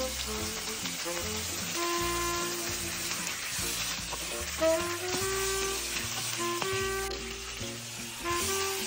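Chicken pieces sizzling in hot oil in a pan with onion and garlic, stirred with a wooden spatula, over background music.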